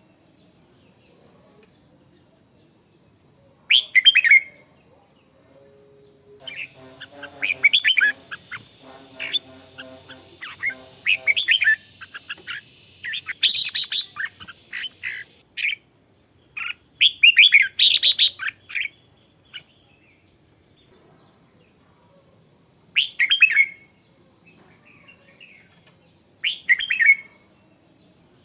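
Red-whiskered bulbuls singing in short, bright phrases, sparse at first and near the end and coming thick and overlapping through the middle. A steady high whine runs underneath.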